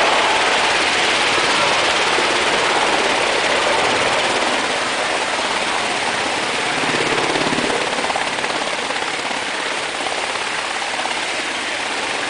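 Military helicopters flying over, giving a steady rushing rotor and turbine noise. The rotor beat swells briefly about seven seconds in.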